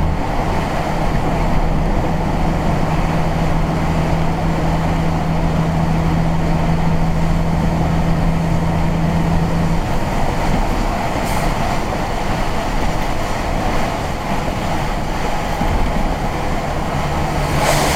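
Car driving, heard from inside the cabin: a steady engine hum over road and tyre noise. The engine note changes about halfway through, with its steady tone dropping away.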